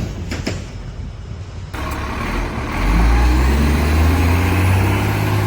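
A large engine running with a low, steady drone that grows louder about three seconds in, after a few sharp clicks near the start.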